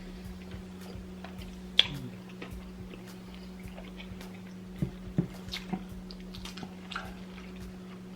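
People chewing food at a table: wet mouth sounds with a few sharp clicks, the loudest about two seconds in, over a steady low hum.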